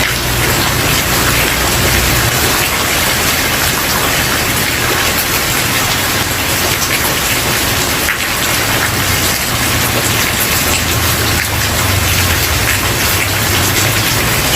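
Steady heavy rain falling on a wooden porch: a dense, even hiss of countless drops. A low rumble swells underneath near the start and again through the second half.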